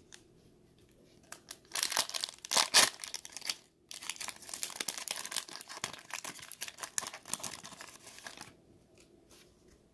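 A trading-card pack wrapper being torn open and crinkled by hand. A short bout of sharp tearing is followed, after a brief pause, by several seconds of steady crinkling as the pack is pulled open and the cards are slid out.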